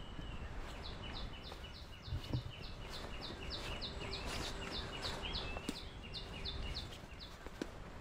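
A bird calling in a rapid, even series of short, high, downward-sliding notes, about four a second, which starts about a second in and stops near the end, over a low outdoor rumble.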